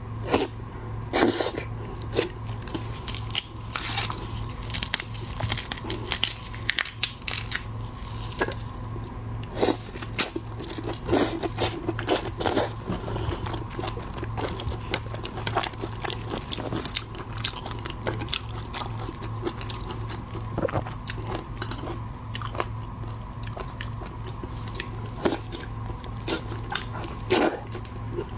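Close-miked eating of shellfish such as lobster and shrimp: irregular crunchy bites and wet chewing, over a steady low hum.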